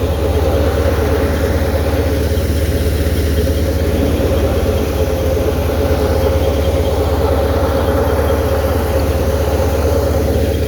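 Tractor engine running steadily with a constant deep drone and no change in speed.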